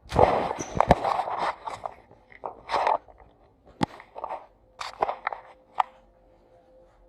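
Irregular crunching and scraping handling noises: a dense cluster in the first second or so, then scattered short crunches and clicks.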